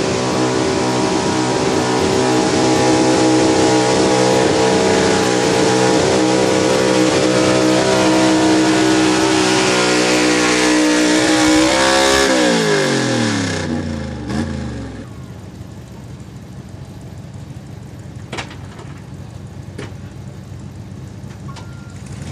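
Pulling truck's engine held at high revs under full throttle, dragging the weight sled. About twelve seconds in the throttle comes off and the engine note slides down in pitch over a few seconds, dropping to a much quieter background.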